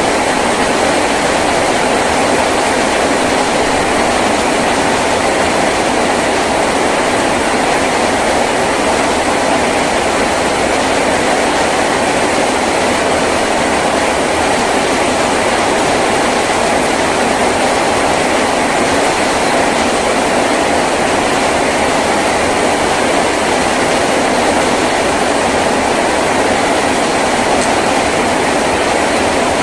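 Heavy rain falling steadily on a tin roof: a dense, even rush of noise with no let-up.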